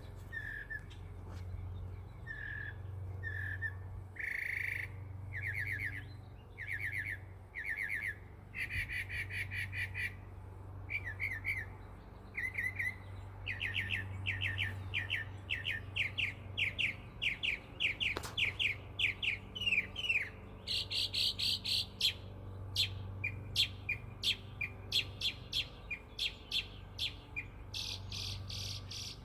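Mockingbird singing a long, varied song: each short phrase of chirps, trills or sweeping notes is repeated several times before it switches to a new one, with harsher, buzzier phrases near the middle and near the end. A steady low hum runs underneath.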